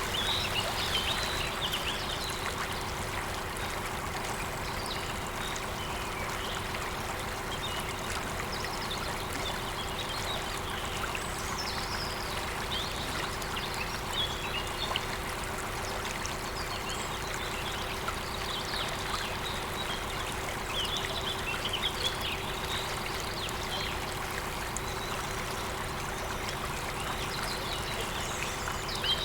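Waterfall running steadily, with birds chirping and singing on and off above it.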